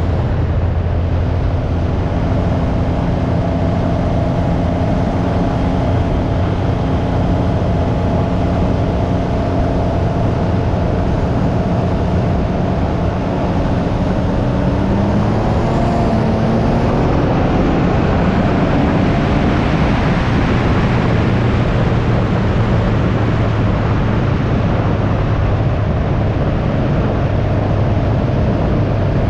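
Can-Am Ryker 900's three-cylinder Rotax engine running on the move, mixed with wind rush. About halfway through, the engine note rises as it accelerates, and the wind noise then grows louder.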